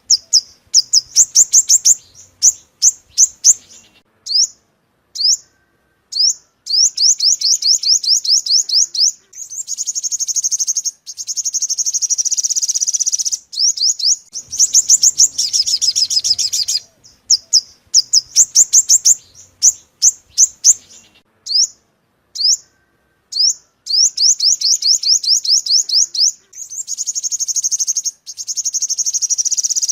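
Song of the yellow-bellied bird known in Vietnam as 'chim 5 màu', played as a trapping lure recording: high-pitched trills of rapid repeated notes lasting a few seconds each, alternating with single sharp chips and brief pauses.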